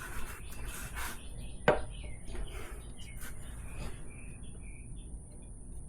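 Tyre tools being handled on a motorcycle's rear wheel during a tyre change, with one sharp metal click a little under two seconds in. Small birds chirp faintly in the background.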